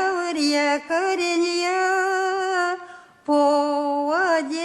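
A woman singing a slow Russian folk song solo, with no instruments heard, in long held notes with vibrato; she breaks off briefly about three seconds in and goes on.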